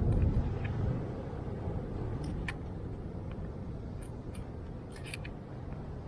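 Steady low rumble of wind buffeting the microphone, a little louder in the first second, with a few faint sharp clicks and ticks of handling.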